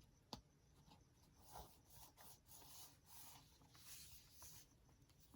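Faint paper rustling and soft taps as the pages of a handmade junk journal are handled and turned, with one small sharp click just after the start.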